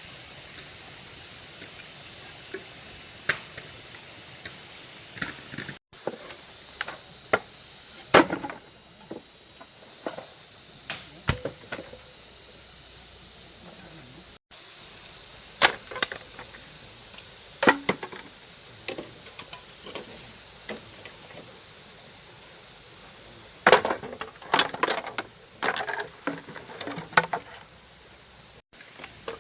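Steady high-pitched insect chorus, with scattered sharp wooden knocks and clatters of hand work, in clusters around a third of the way in and near the end.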